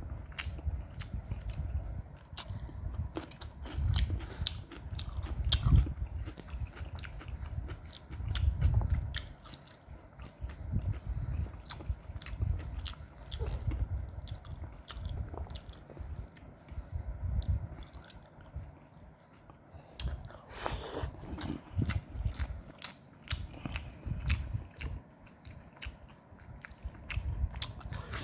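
A person chewing mouthfuls of white chickpea curry with rice, yogurt and salad, with many small mouth clicks and smacks over irregular low thuds.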